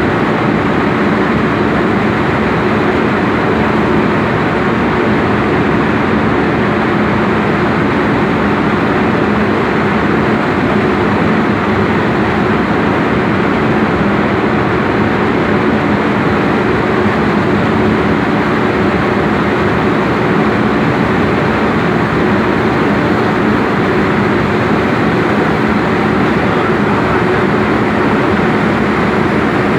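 Box-type coffee dryer running with its mechanical mixer working: a loud, steady machine noise with a low hum.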